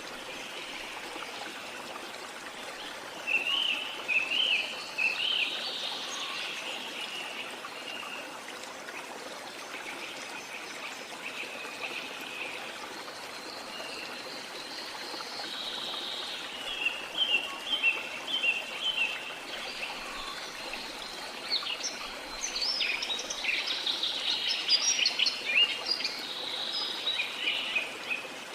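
Steady rush of flowing water with birds singing over it: a burst of song a few seconds in, and busier, overlapping chirping through the second half.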